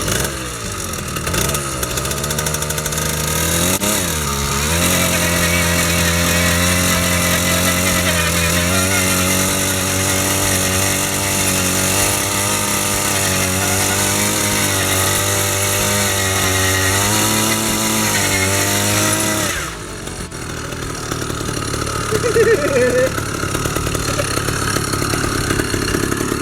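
80cc two-stroke gas bike engine with an expansion chamber exhaust, revving up over the first few seconds and then running hard at high revs with its pitch wavering slightly. The engine sound cuts off suddenly near the end and gives way to quieter background noise.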